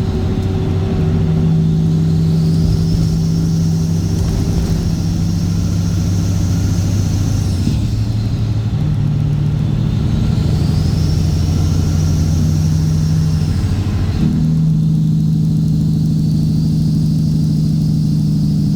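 Straight-piped Cat C15 ACERT inline-six diesel in a Kenworth W900 running steadily under way. Its note changes pitch twice, about a third of the way in and again about three-quarters through, and a high whine rises and falls above it.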